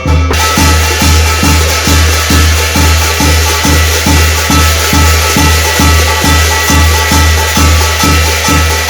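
Korean shamanic ritual (gut) music: a drum beating steadily about two and a half times a second under a dense, bright ringing layer with held tones.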